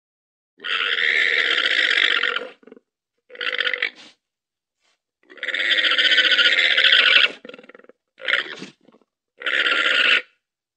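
Llama giving five harsh, rasping calls: two long ones of about two seconds and three short ones, separated by brief pauses.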